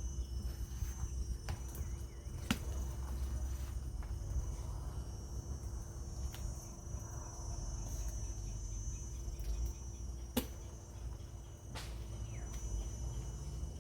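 Insects chirring in a steady high-pitched drone over a low rumble, with a few sharp clicks scattered through.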